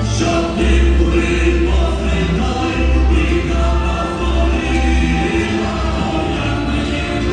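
A choir singing a Ukrainian song in several parts, holding long notes over a steady low bass line.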